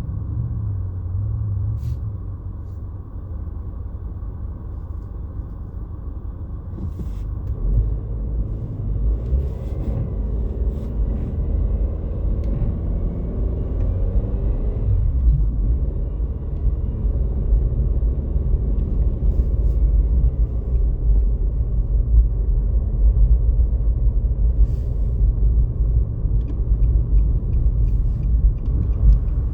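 Steady low rumble of a motor vehicle driving, with an engine hum that rises from about eight seconds in and levels off a few seconds later.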